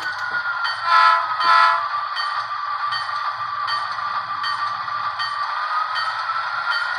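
A model train locomotive's DCC sound decoder playing through its small onboard speaker: a steady, tinny engine sound with faint regular ticking, and two short horn toots about a second in.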